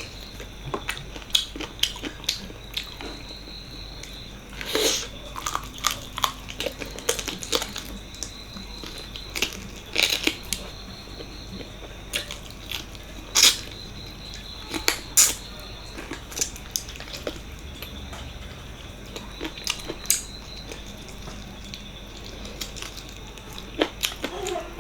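Eating sounds of mutton paya curry and rice: wet chewing and smacking with irregular sharp clicks, a few of them louder.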